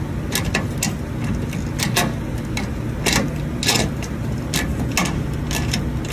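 Irregular metallic clicks, a few each second, as a nut is turned down on a thread setter's M6 mandrel to pull a damaged access hole in sheet metal back into shape. A steady low hum runs underneath.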